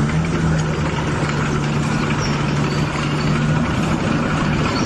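Dump truck's diesel engine idling steadily, a low even hum with no revving.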